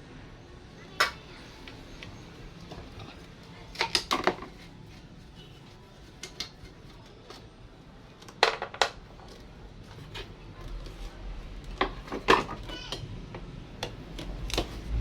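Scattered sharp metallic clinks and knocks, singly and in quick clusters of two or three, from hand tools and metal parts being handled during work on a twin-tub washing machine's spin-dryer motor.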